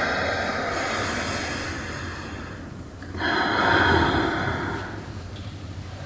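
Two long, breathy swells of noise, like heavy exhalations, each rising and fading over about two seconds, over a low steady hum.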